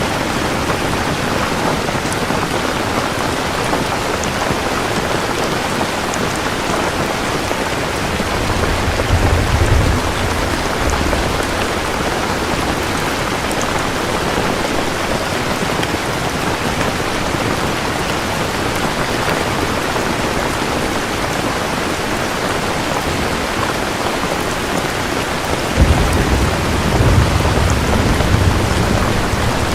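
Steady rain with two low rolls of thunder: one about a third of the way in, and one that starts suddenly near the end and rumbles on.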